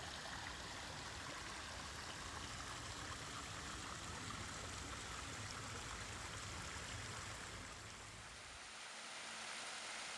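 Flowing water, a faint, even rush with no distinct splashes; it dips slightly about eight seconds in.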